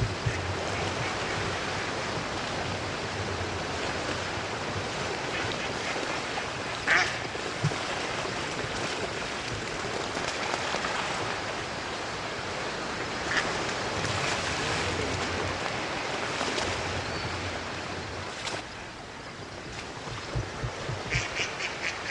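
A large flock of ducks quacking and calling without a break as they pour into flooded timber, over a steady rushing noise. A few sharp knocks stand out, about seven seconds in and in a quick run near the end.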